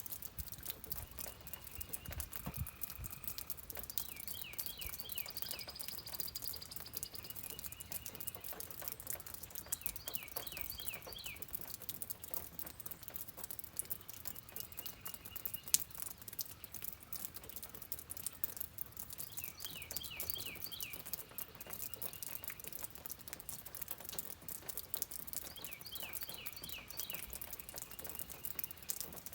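Rain pattering and dripping as a dense spatter of fine ticks, with one sharper tick about halfway through. Over it a songbird repeats a short rapid trill of quick downward-sweeping notes every few seconds, with a few single whistled notes between.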